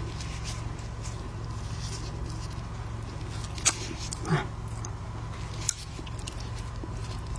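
Close-miked eating of a shrimp: a few short sharp clicks and crackles, spaced apart, over a steady low hum.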